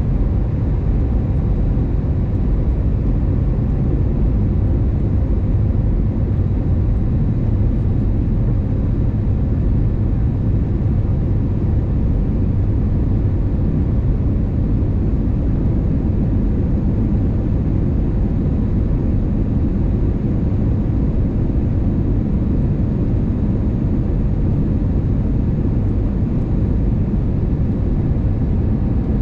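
Steady low rumble of airliner cabin noise inside an Airbus A320neo: engine and airflow noise from its CFM LEAP-1A engines, holding an even level with no change.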